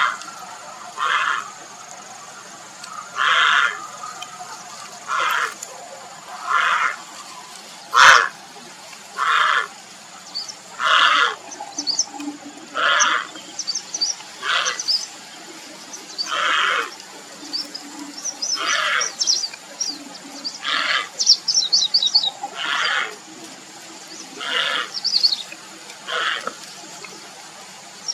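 Grey heron giving short, harsh calls over and over, about one every one and a half to two seconds: its call for a mate. There is a sharp click about eight seconds in. Small birds chirp high and fast in the background, most busily in the second half.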